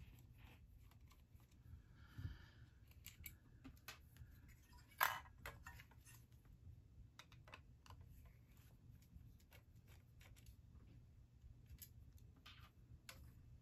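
Faint scattered clicks and taps of small screws being backed out of a metal hard-drive sled with a screwdriver and the parts being set down, with one sharper click about five seconds in.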